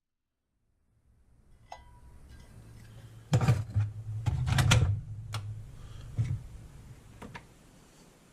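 A low steady hum with a handful of knocks and rattles, like objects being handled and set down. The knocks are loudest and most frequent in the middle.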